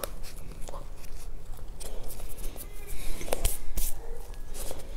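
Close-miked chewing of a soft pastry: wet mouth clicks and smacks, a few sharper ones about three seconds in.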